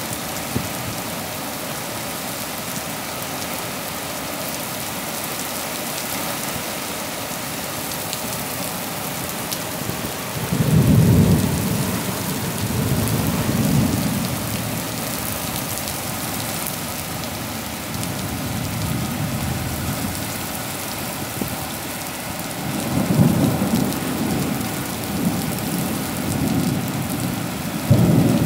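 Heavy rain falling steadily on paving stones and a wet street. Several low rumbling swells rise over it, the loudest about ten seconds in and a cluster near the end.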